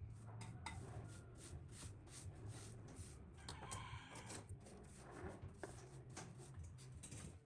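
Rhythmic hand-tool strokes on the fan parts, about three a second. A rooster crows briefly in the background about three and a half seconds in.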